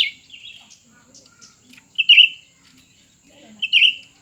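Two cucak ranting songbirds calling against each other in a singing duel: short, sharp chirps. The loudest come near the start, about two seconds in and near the end, with fainter calls between.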